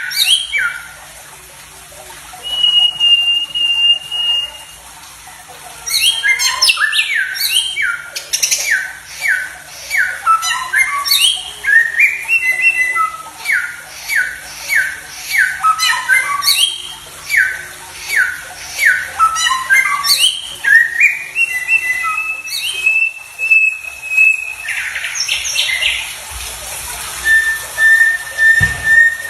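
Songbird singing: a long run of sharp downslurred notes at about two a second, broken by several held whistled notes.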